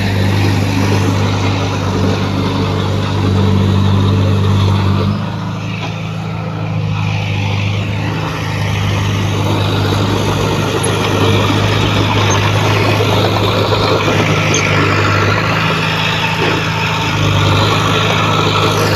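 Heavy diesel engine of earthmoving equipment running steadily under load. It eases off about five seconds in and picks up again a few seconds later.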